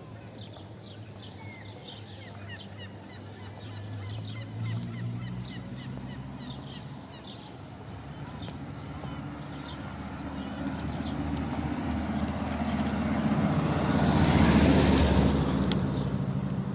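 A motor vehicle drives up and passes close by, its engine hum building and loudest about fourteen seconds in, then fading. Small birds chirp through the first half.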